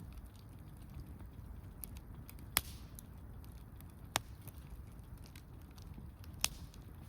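Wood campfire crackling: three sharp pops a second or two apart over the low, steady sound of the flames.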